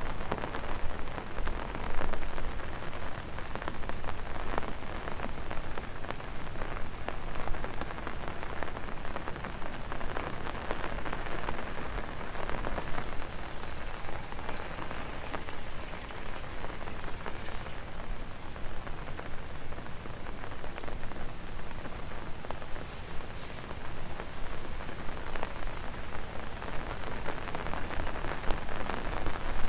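Heavy rain falling on an umbrella held overhead: a steady dense hiss with many close drop impacts.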